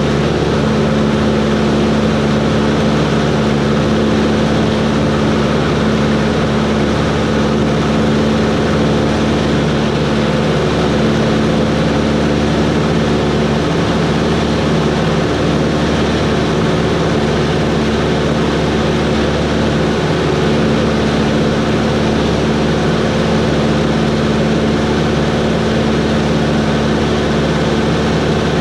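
Cessna 140's piston engine and propeller running steadily in flight, a constant drone with no change in power.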